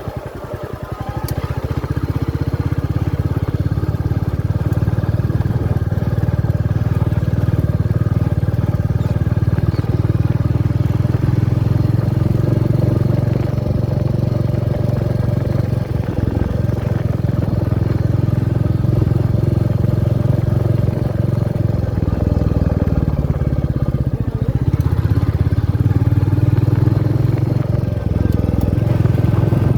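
Royal Enfield Meteor 350's single-cylinder engine running loud and steady. It picks up about a second in, eases off for a few seconds past the middle, then rises again near the end.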